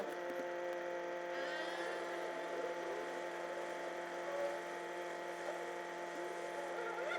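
Steady whirring drone of a Kia K5 in motion, heard from inside the cabin at cruising speed, holding an even pitch with a small shift near the end.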